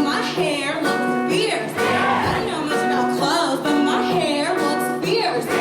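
Show choir singing with instrumental accompaniment: voices in melodic lines over sustained backing tones.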